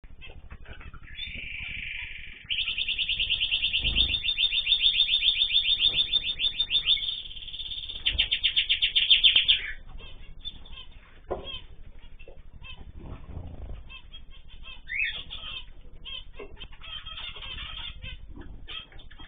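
Cage birds calling: a loud, rapid trill of evenly repeated high notes lasting about seven seconds, followed by scattered short chirps, clicks and rustling.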